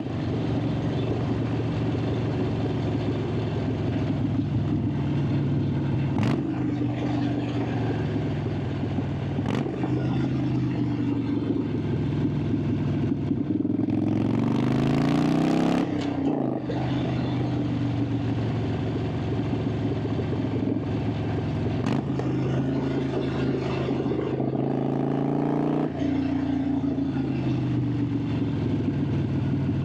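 Harley-Davidson Sportster 883's air-cooled V-twin exhaust heard from on board while riding. The revs climb under acceleration and step down at gear changes, with a loud rush near the middle as it pulls hard.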